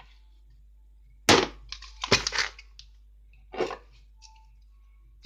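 Packets and boxes of drinks being handled and set down: a few short crackles and knocks about a second in, around two seconds in, and again near the end.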